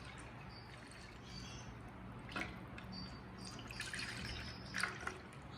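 Faint kitchen sounds of water dripping and trickling, with a few small clicks and knocks, two of them sharper, about two and a half and five seconds in.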